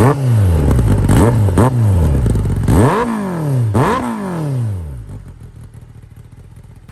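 Kawasaki ZX-10R inline-four sportbike engine blipped through its exhaust about five times: each rev rises sharply and falls away, with crackle as it drops. After about five seconds it settles to a much quieter low running sound.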